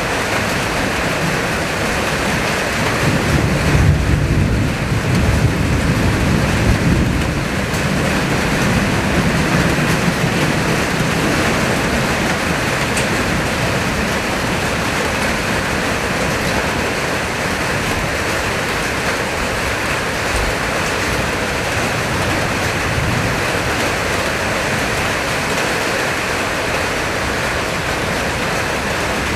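Heavy rain and strong wind of a summer thunderstorm, a steady rushing noise. About three seconds in a deeper, louder surge builds and lasts several seconds before settling back.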